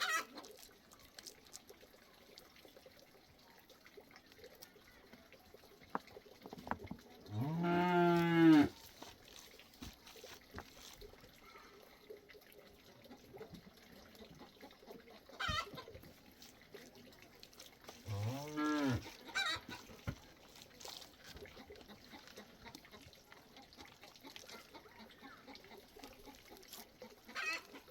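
Cow mooing twice, each a long arched low call, the first about seven seconds in and the second about eighteen seconds in. A few short, higher animal calls come between and near the end.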